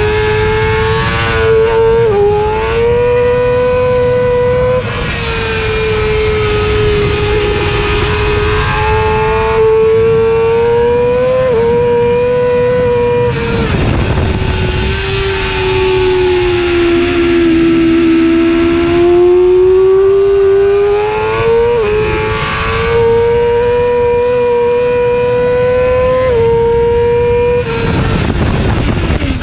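2009 Yamaha YZF-R6's inline-four engine at high revs, heard from onboard the bike, its high-pitched note climbing and then dropping sharply at each gear change. Around the middle the revs sag lower and climb back slowly before the quick shifts resume.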